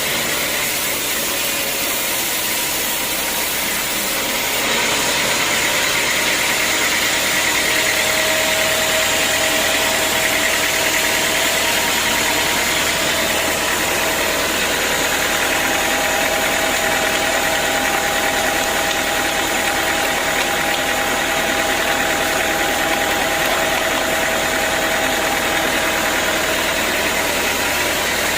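Sawmill saw running steadily through a teak log. It gets louder about four and a half seconds in, and a steady whine sits over the noise through the middle of the cut.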